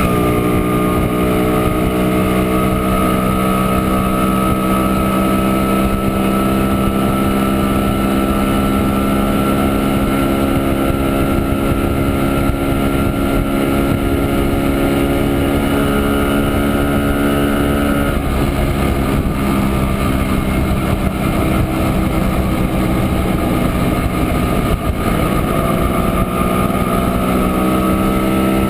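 Montesa Impala Comando 175 cc two-stroke single-cylinder engine running under way, heard from on board. Its steady note slowly falls in pitch, gives way about two-thirds through to a rush of noise as the throttle is eased, and comes back rising near the end as the bike picks up again.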